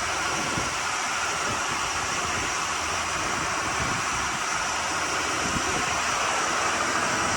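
Bayliner 4788 motor yacht under way: a steady drone of its twin diesel engines mixed with rushing water and wind buffeting the microphone.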